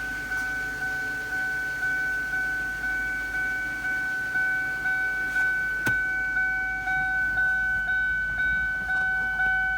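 2000 Lincoln LS dashboard warning chime dinging over and over at an even pace, about three dings every two seconds, each ding fading quickly. A single sharp click comes about six seconds in.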